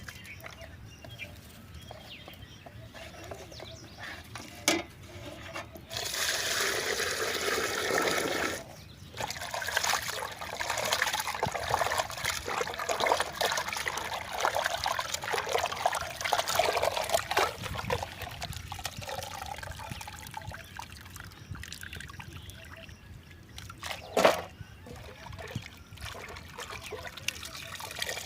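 Water pouring and trickling, loudest for a couple of seconds about six seconds in, then a longer stretch of busier splashing and handling. A single sharp knock comes near the end.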